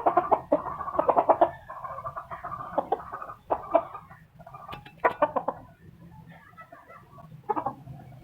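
Aseel hen clucking in repeated bursts of quick, loud calls, thickest at the start and thinning out towards the end.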